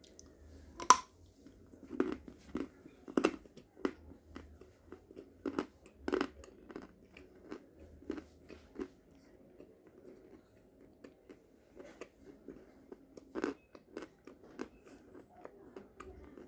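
A person biting into and chewing crunchy brown edible chalk. There is a sharp crunch about a second in, then a run of crunches that thins out into slower chewing, with one more loud bite near the end.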